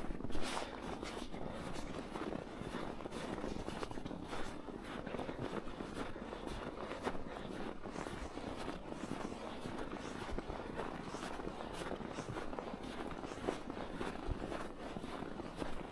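Footsteps walking through snow at a steady pace.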